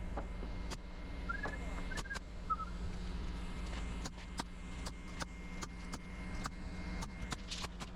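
Steady low engine hum with scattered sharp knocks and clicks of framing work: lumber and tools striking at irregular intervals, a dozen or more over the stretch.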